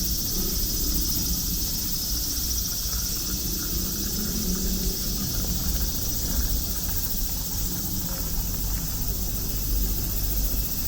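Chorus of summer insects: a steady high-pitched buzzing with a fine, fast pulse, over a low steady rumble.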